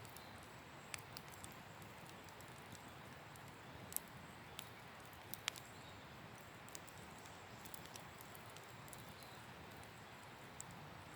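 Wood campfire crackling quietly: scattered, irregular sharp pops and snaps over a faint steady hiss, with the two loudest pops about four and five and a half seconds in.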